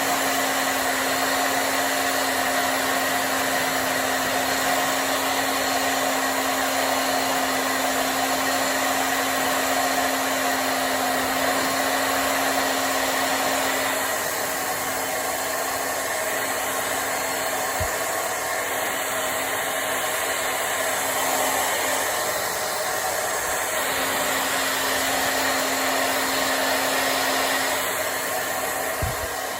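Handheld hair dryer blowing steadily: a rush of air over a constant motor hum, dulling a little about halfway through as the airflow shifts. Two brief low thuds, one in the middle and one near the end.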